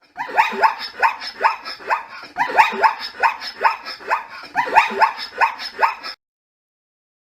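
A dog barking in a fast run of short yelps, each falling in pitch, about two or three a second, stopping suddenly about six seconds in.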